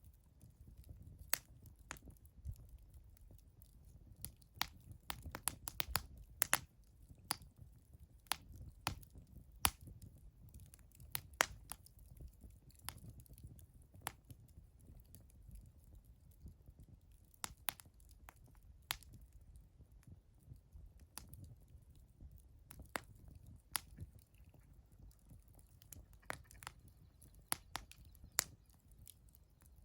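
Wood fire crackling, with sharp irregular pops and snaps from the burning wood over a low, steady rumble.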